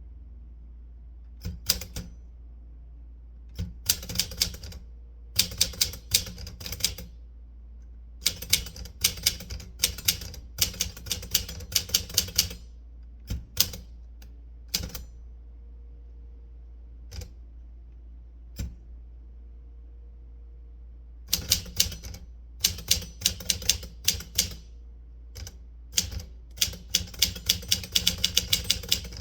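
Typewriter keys striking in quick runs of keystrokes with pauses between, then a long gap of only a few scattered strokes before another fast run near the end. A faint steady hum sits underneath.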